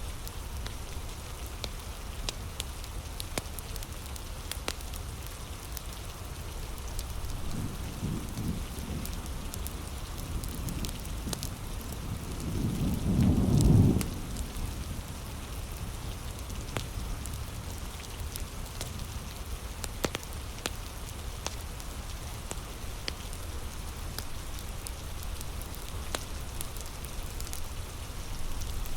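Steady heavy rain with the sharp crackle and pops of a wood fire. A low rumble of thunder swells twice, the second time loudest about halfway through, then cuts off suddenly.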